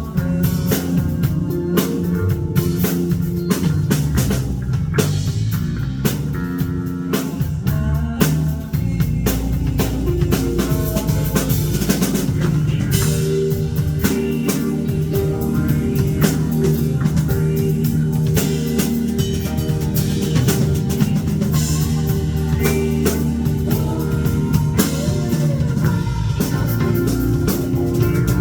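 Rock band playing: drum kit with snare and cymbal hits driving over electric guitar and bass, with a brief break about nine seconds in.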